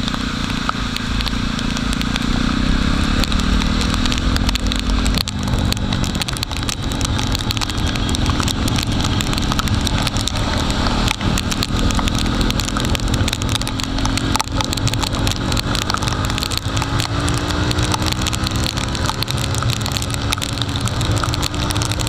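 Jawa motorcycle's single-cylinder engine running at speed under heavy wind rush, with many small ticks on the microphone typical of rain. The engine pitch climbs over the last several seconds as the bike speeds up.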